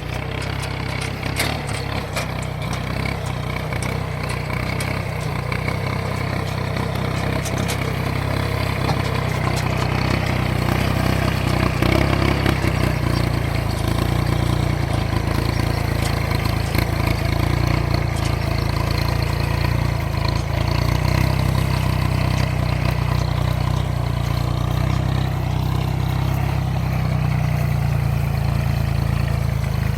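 Farm tractor engine running steadily, a low continuous drone with a slight rise in level about a third of the way in.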